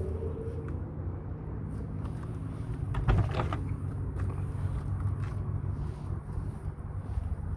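An engine idling with a steady low hum, and a short knock about three seconds in.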